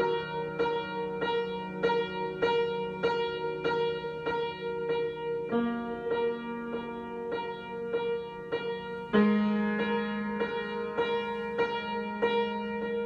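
Piano improvisation: a chord struck over and over, about two times a second, above held bass notes that change twice.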